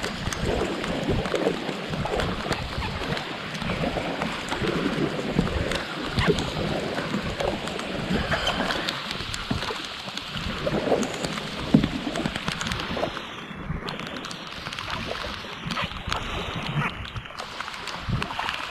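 Heavy rain falling on lake water and on a kayak: a dense steady hiss with many small taps of drops.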